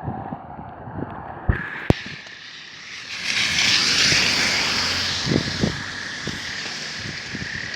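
A vehicle passing by, its hissing road noise swelling up about three seconds in and slowly fading away, after two sharp clicks.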